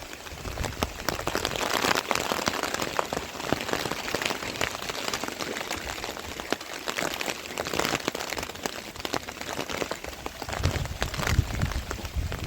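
Heavy rain falling, with many individual drops striking sharply close by; a low rumble joins in near the end.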